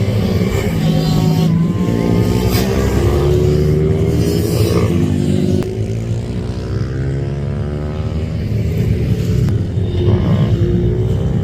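Racing minibike engines revving hard on track, several at once, their high-pitched notes climbing and then dropping again several times as the bikes accelerate and back off.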